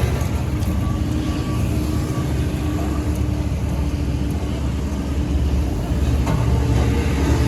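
Diesel engine of heavy road-construction machinery running steadily, a constant low rumble with a steady hum through it.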